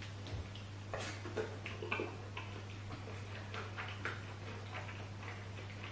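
Mukbang eating sounds: scattered small clicks and smacks of chewing and mouth noises, over a steady low hum.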